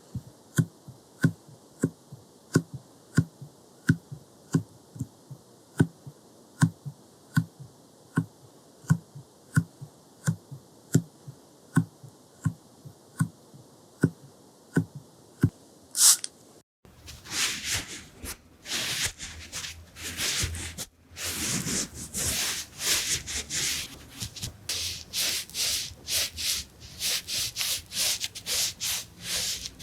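Close-miked ASMR makeup-tool sounds: light taps about two a second for the first half, then after a sudden cut, dense rubbing and dabbing strokes against the microphone.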